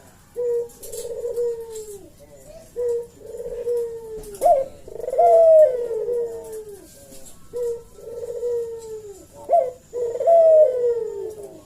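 Puter dove (Barbary/ringneck dove) cooing over and over. Each coo is a short note followed by a longer falling note, repeated about every two seconds.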